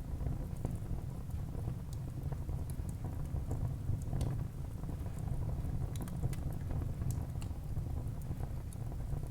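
Wood fire burning in a fireplace, with scattered sharp crackles and pops over a steady low rumble of the flames.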